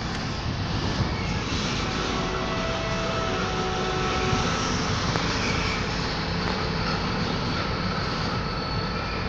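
Freight train wagons rolling along the station tracks, making a steady rumble of wheels on rail. Faint thin wheel squeals come and go through it.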